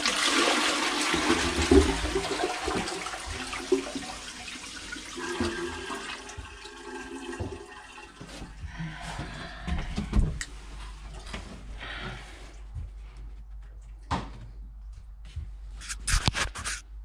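Toilet flushing: a rush of water, loudest at the start and fading over about six seconds into quieter trickling. A few sharp knocks come near the end.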